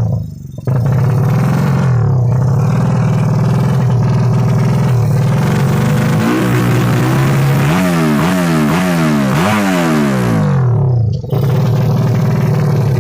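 Drag-tuned Yamaha Jupiter motorcycle engines revving hard. About halfway through the pitch climbs and drops several times in quick succession.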